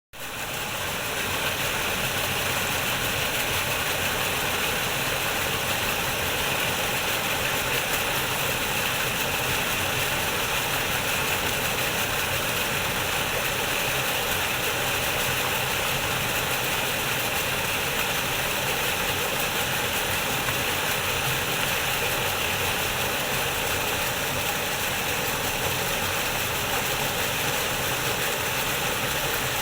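Waterfall with water rushing steadily, an even, unbroken hiss.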